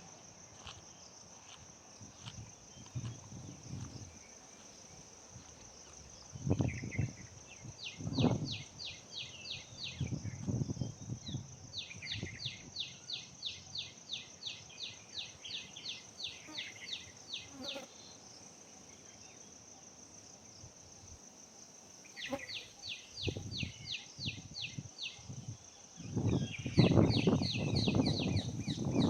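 Steady high-pitched insect drone, broken by several runs of rapid high chattering notes at about four a second. Low thumps come and go, growing louder and denser near the end.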